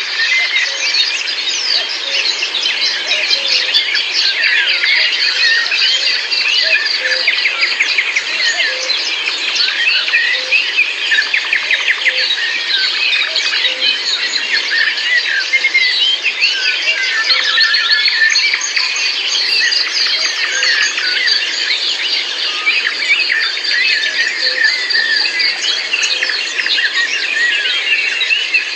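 A dense dawn-chorus-like mix of many songbirds, short chirps and trills overlapping thickly without a break. A faint, evenly repeating lower note sounds under them.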